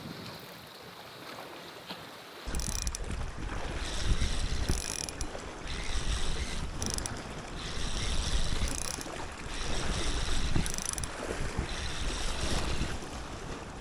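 Soft hiss of rain and sea, then, about two and a half seconds in, wind suddenly buffets the microphone with a loud low rumble, while waves and rain come and go in gusts of hiss.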